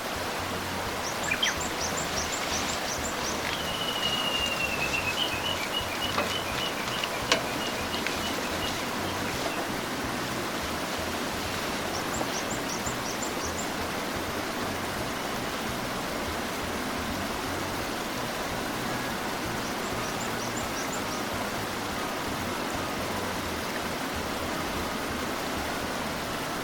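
Small birds chirping over a steady even rush of outdoor noise. A quick run of high notes comes about a second in, a long trill from about four to nine seconds in, and more short runs of chirps around twelve and twenty seconds in.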